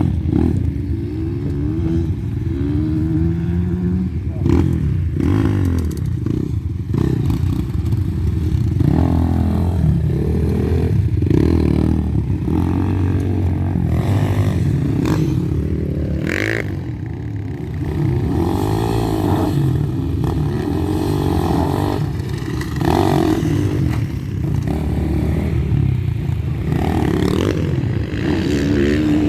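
Gas Gas EC200 two-stroke enduro motorcycle being ridden off-road, its engine revving up and falling back again and again, with clattering knocks running through it.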